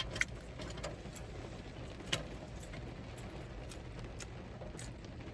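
Quiet room tone with a steady low hum and a few faint scattered clicks, the clearest one about two seconds in.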